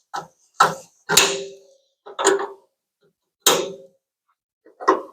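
Sharp metallic clicks and clinks, about six spread over five seconds, each with a brief ring, the loudest about a second in. They come from the welded pull studs being taken off the sheet-metal truck bed after stud-welder dent pulling.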